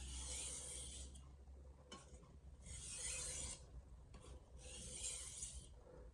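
VG10 steel santoku blade drawn edge-leading across a Shapton Glass 500-grit whetstone: three scraping strokes of about a second each with short pauses between, taking off the burr.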